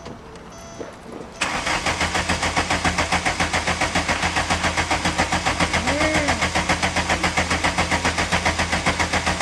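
1991 VW Jetta's four-cylinder turbodiesel being started cold with dead glow plugs: about a second and a half in, the starter engages and the engine churns with a steady, even chug, struggling to start without glow plug heat.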